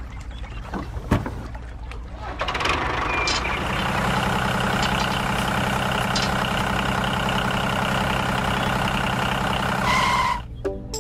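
A single knock about a second in, then a truck or tractor engine running steadily from about two and a half seconds in. A short high tone sounds near the end before the engine cuts off suddenly.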